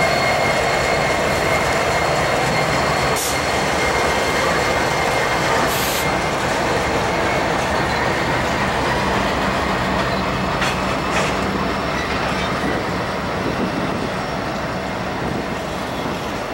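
Intermodal freight train rolling past close by: trailer-on-flatcar cars go by behind the trailing diesel locomotive with a steady rumble of steel wheels on rail. A faint high wheel squeal sounds in the first few seconds, and a few sharp clicks from the wheels crossing rail joints come about three, six and eleven seconds in.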